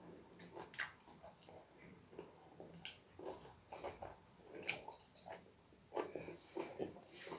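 Close-up eating sounds of starch and slimy okra soup: irregular wet smacks, clicks and slurps from the mouth, several a second at times.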